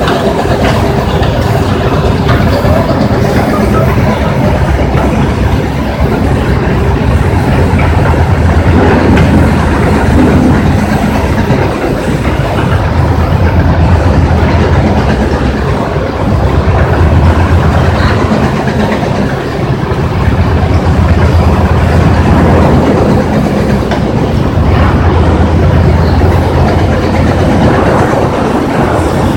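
Stone crusher running under load: a loud, continuous clattering rattle over a low hum that swells and eases every few seconds.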